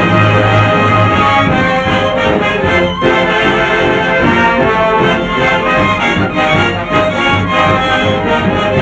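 1930s film studio orchestra playing a dance arrangement, with brass and reeds carrying the tune.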